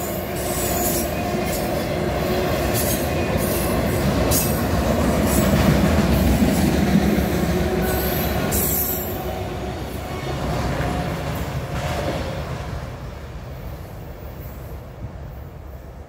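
Loaded freight autorack cars rolling past close by: steel wheels running over the rails in a steady rumble with scattered high screeches. The noise fades over the last few seconds as the end of the train goes by.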